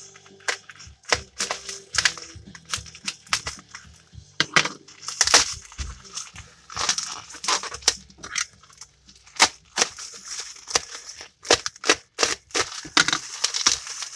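Plastic packaging being pulled and unwrapped by hand: irregular crinkling and crackling with many sharp snaps.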